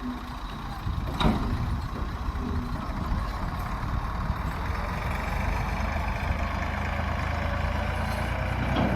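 Tractor diesel engine running steadily at low speed, with a sharp knock a little over a second in.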